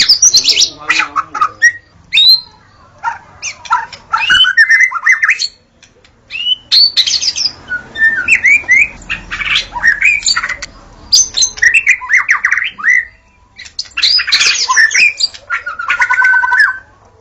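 White-rumped shama (murai batu) singing a varied song of whistled glides, rapid trills and harsh notes, in bursts with short pauses between phrases; a sustained trill comes near the end.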